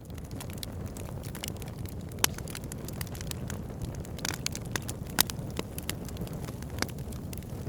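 Wood fire burning with a steady low rumble and irregular crackles and sharp pops, a few of them louder.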